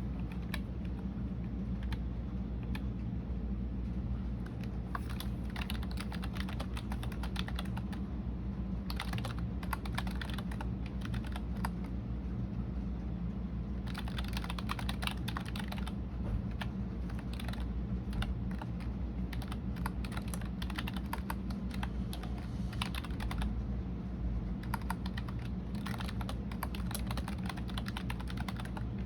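Computer keyboard being typed on continuously, the keys clicking in fast runs with brief pauses. A steady low hum sits underneath.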